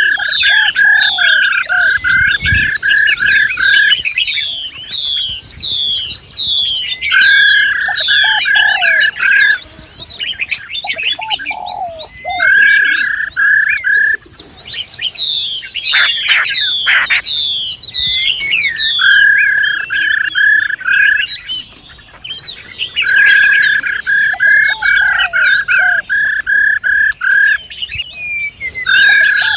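Songbirds calling: runs of rapid, evenly repeated notes at one pitch, each lasting about two seconds and coming back every few seconds, over a dense twitter of high, quickly sweeping chirps.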